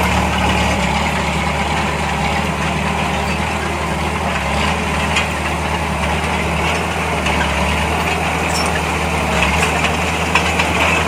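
Heavy diesel engine of earthmoving machinery running steadily at low revs, close to idle, with a few faint clanks over the drone.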